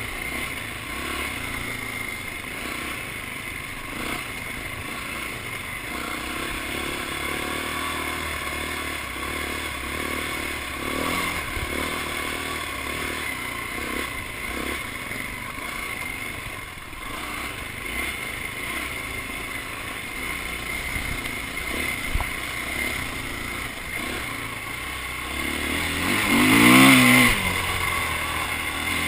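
Dirt bike engine running with a steady drone. Near the end it gets loudly closer, its pitch rising and then falling as it revs.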